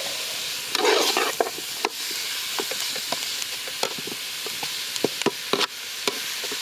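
Food sizzling in a hot pan while it is stirred, with frequent taps and scrapes of the utensil against the pan and a louder spell of stirring about a second in.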